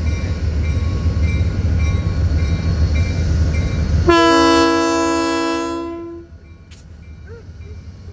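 A diesel locomotive's engine rumbles steadily. About four seconds in, it sounds one blast of its Nathan AirChime RS-3L horn, a chord of several steady tones lasting about two seconds. Afterwards only a quieter rumble remains.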